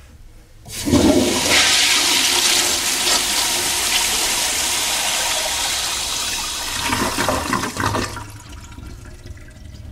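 A toilet's Crane Presto flushometer flushing: a sudden loud rush of water starts about a second in, runs for about seven seconds, and then cuts off.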